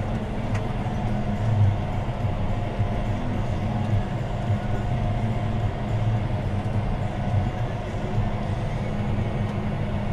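John Deere 6215R tractor's six-cylinder diesel engine running steadily under load while pulling a plough, heard from inside the cab as an even low drone.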